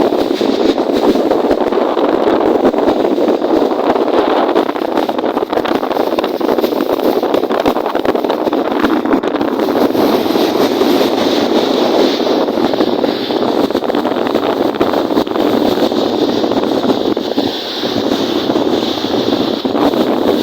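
Steady rush of strong wind and choppy lake waves, with wind buffeting the microphone.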